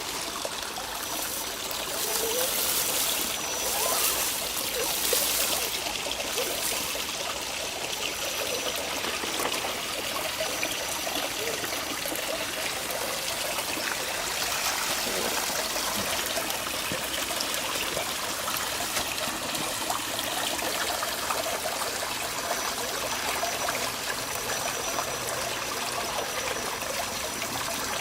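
Steady trickling of running water, like a shallow stream, with a louder hissing stretch a few seconds in.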